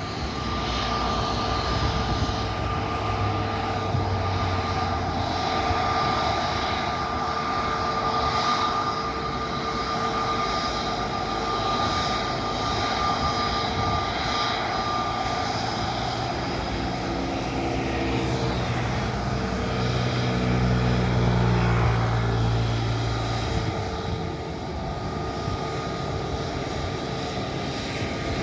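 Airbus A321neo jet engines at takeoff thrust: a steady, loud engine noise with a high fan whine. About two-thirds of the way through, the sound swells and its pitch shifts as the aircraft passes.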